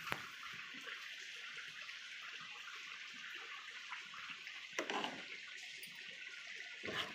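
Steady hiss of heavy rain in the background, with a couple of soft clinks of a metal spoon stirring vermicelli in milk in an aluminium pan, about five and seven seconds in.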